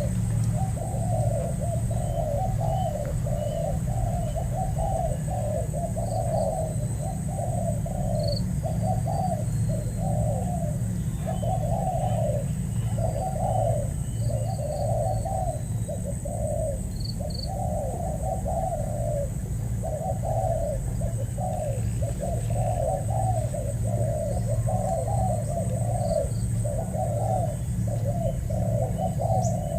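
Spotted doves cooing in quick repeated phrases, about one a second without a break, over a steady low hum, with a few faint high chirps from small birds.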